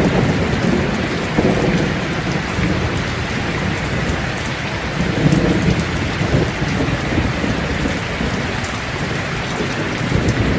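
Steady heavy rain, with low rolling rumbles of thunder swelling and fading.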